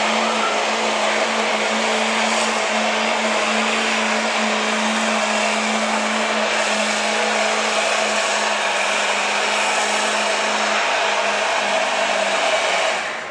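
Diesel 4x4 pickup truck engine run hard at full throttle while pulling a weight-transfer sled: a loud, steady drone holding one pitch, which drops away right at the end.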